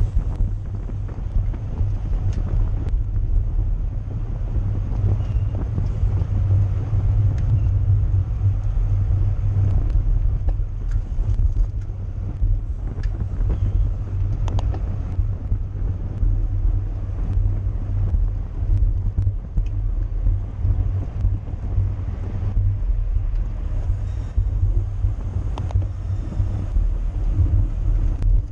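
Wind buffeting the microphone of a camera on a racing bicycle moving at speed: a steady low rumble with an even rushing haze above it.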